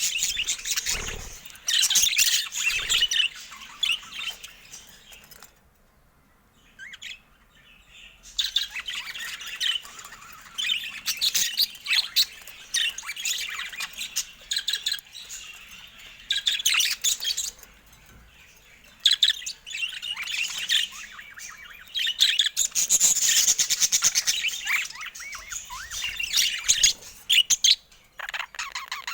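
Budgerigars chattering and chirping in rapid bursts, with a short lull about six seconds in.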